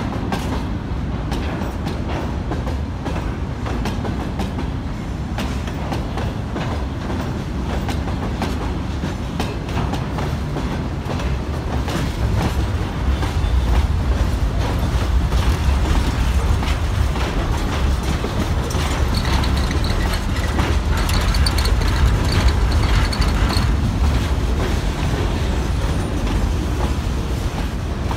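Freight train wagons (open gondolas, covered hoppers, boxcars) rolling past, wheels clattering over rail joints in a continuous clickety-clack over a low rumble. It grows louder about halfway through, and a faint high squeal comes in for a few seconds in the second half.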